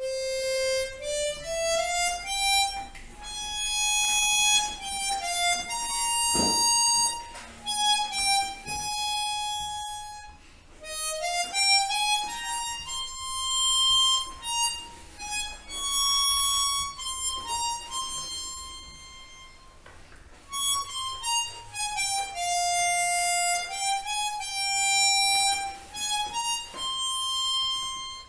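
Chromatic harmonica playing a single-note practice melody in phrases of held notes, rising and falling step by step, with brief pauses between phrases.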